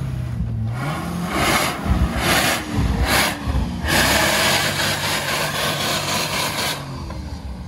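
Jeep Grand Cherokee engine revving in repeated surges through a loud exhaust as it tries to pull away through snow. The muffler has broken off and hangs detached, so the exhaust is very loud.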